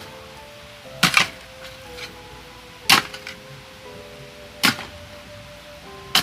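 Digging tool striking into soil in separate sharp chops, about one every one and a half to two seconds, one of them a quick double stroke. Faint sustained music notes run underneath.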